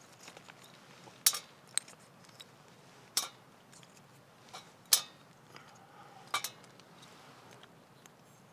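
Camp cookware being handled: a handful of separate sharp metal clinks and knocks, a few of them ringing briefly.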